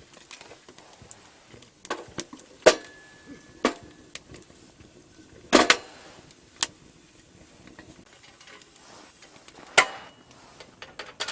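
Irregular sharp clicks and knocks, five louder ones spaced a second or more apart, one trailed by a brief ringing tone.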